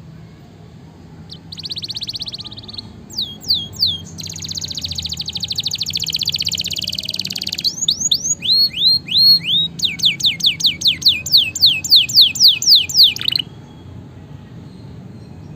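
Domestic canary singing one long song: a buzzy trill, a few falling notes, a fast rolling trill, then a run of repeated down-slurred whistles that quickens before stopping abruptly near the end.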